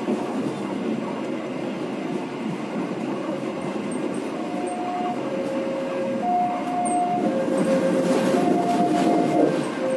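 KA Penataran passenger train rolling along the track with a steady rumble. From about four seconds in, a level-crossing warning alarm sounds, alternating between a higher and a lower tone just under a second each, getting somewhat louder as the train nears the crossing.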